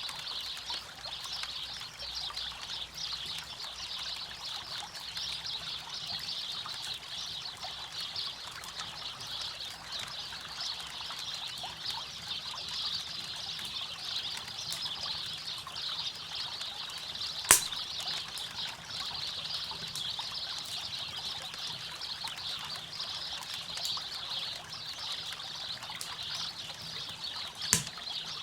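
River water flowing steadily, with a campfire crackling over it and two loud sharp pops from the fire, one about two thirds of the way in and one near the end.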